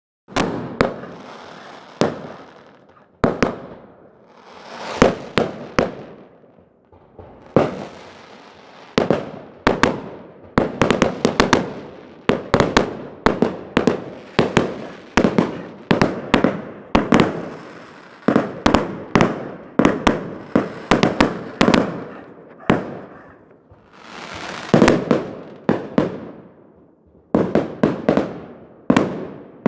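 Fireworks going off: a long run of sharp bangs and cracks, often several in quick succession, with stretches of hissing that swell up before some of the bangs.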